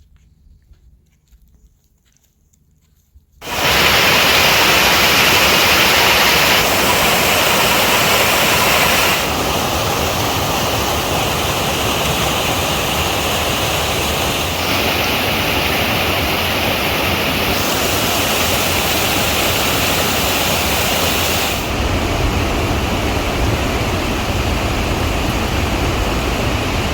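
Loud rushing water, a steady noisy rush that starts suddenly about three seconds in after near silence and shifts abruptly in tone several times.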